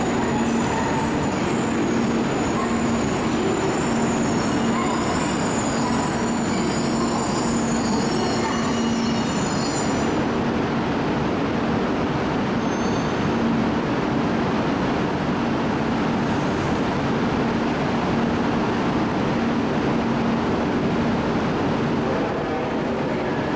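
JR East E2 series Shinkansen at the platform, its equipment giving a steady hum and rush with a low drone. Thin high whining tones run over it and stop abruptly about ten seconds in.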